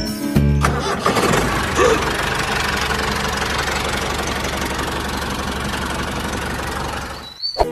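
Engine running steadily, starting about half a second in and cutting off abruptly near the end.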